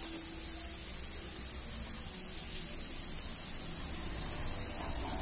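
Chopped bacon and garlic sizzling in oil in a wok, a steady hiss.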